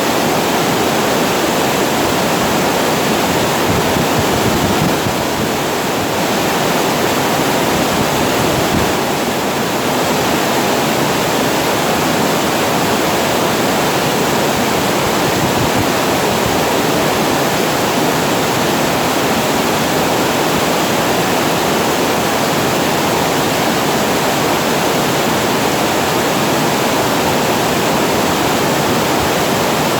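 Water pouring over a weir and falling into the pool below: a steady, loud rush with no breaks.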